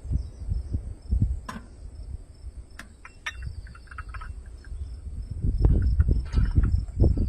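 Crickets chirping steadily in a high, even trill, with low irregular rumbling thumps underneath that grow louder in the second half, and a few sharp clicks.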